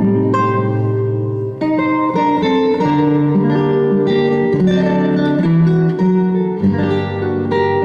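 Instrumental introduction of a recorded backing track played back over a concert PA: plucked-string accompaniment over a moving bass line, before the vocal comes in.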